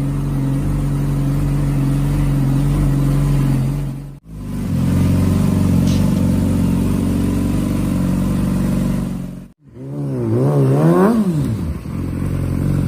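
Motorcycle engine idling steadily, cut off abruptly twice. Near the end the throttle is blipped and the engine note rises and falls.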